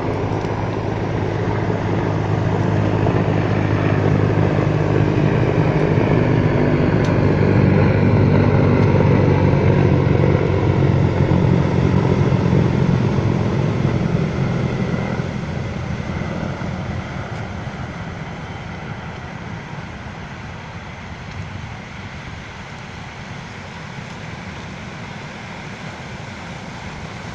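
An engine passing by, a steady low hum that grows louder to a peak about ten seconds in and then fades away over the second half.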